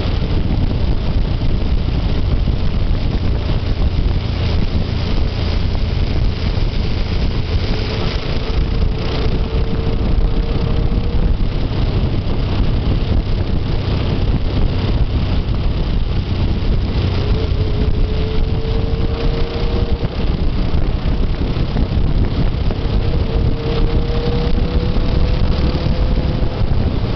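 Wind buffeting the microphone on a moving motorcycle, with a faint engine note under it that rises slowly in pitch three times as the bike pulls.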